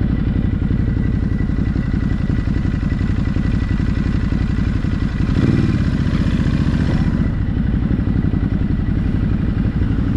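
Ducati Hypermotard motorcycle engine running steadily under way, with a brief swell in engine sound about halfway through.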